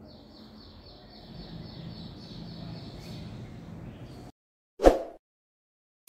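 A bird chirping in a quick, even series of high notes over a low background hiss, cutting off abruptly about four seconds in. Shortly after comes a single short, loud thump.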